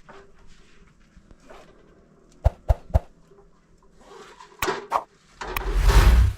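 Objects being handled: a few sharp clacks and knocks, then a loud rustling, rumbling burst near the end, like something bulky being moved or set down right by the microphone.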